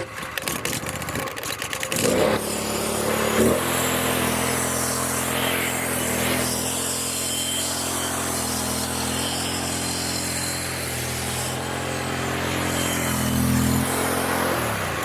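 Pressure washer engine running steadily, settling into an even drone about two seconds in and dropping away at the very end. No water is spraying: the hose is not connected, so the pump is running without flow.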